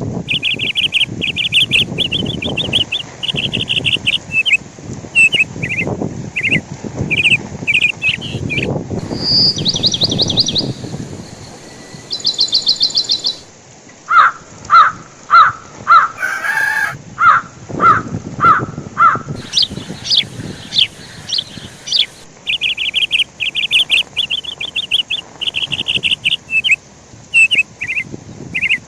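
Birds chirping and calling over and over in quick runs of short notes, with a rough low rushing noise underneath for much of the time.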